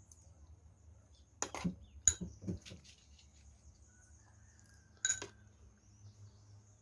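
A metal spoon clinking and scraping against a plate three times, about one and a half, two and five seconds in, with soft eating sounds between the first clinks.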